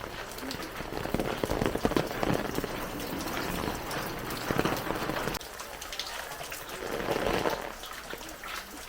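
Heavy rain falling, with dense spattering drops hitting nearby surfaces. It is loudest for the first five seconds, drops off suddenly, then swells again briefly near the end.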